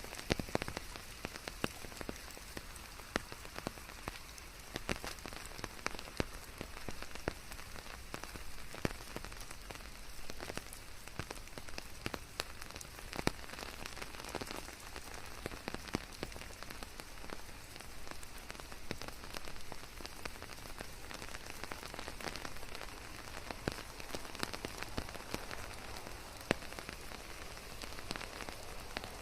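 Steady rain falling, an even hiss with many sharp, close drop taps standing out from it.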